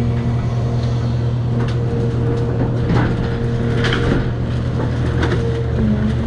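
Cat 336 hydraulic excavator running steadily under work, its engine and hydraulics giving a constant hum with a higher whine that shifts in pitch. Scattered cracks and knocks of demolition debris come around the middle.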